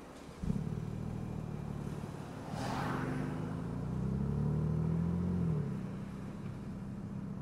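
Car engine running on the road, its note rising as it pulls under acceleration and then dropping as it eases off, with a brief whoosh about three seconds in.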